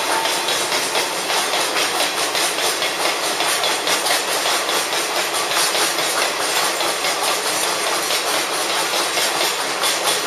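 Loaded ore hopper wagons of a Chichibu Railway freight train rolling past, a steady rumble and rhythmic clatter of steel wheels on the rails.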